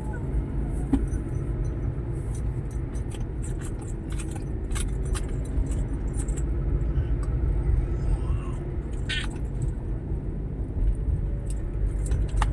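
Steady low rumble of a motor vehicle's engine, with scattered light clicks over it.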